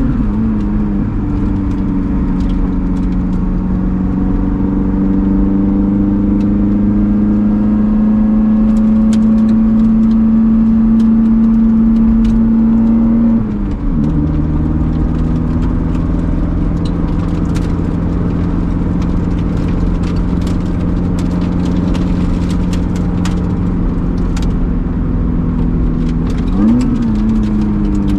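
Lotus Elise Sport 220 II's supercharged 1.8-litre Toyota 2ZR four-cylinder, heard from inside the cabin, pulling under load with its note rising slowly for about thirteen seconds. Then a gear change drops the pitch, and the engine pulls on. There is a quick upward sweep in engine pitch near the start and again near the end, with faint scattered ticks over the steady engine sound.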